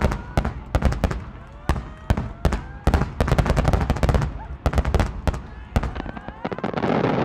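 Aerial firework shells bursting in quick succession, a sharp report at each burst, with a dense run of reports a few seconds in. Near the end they give way to a thick crackle from a mass of small bursts.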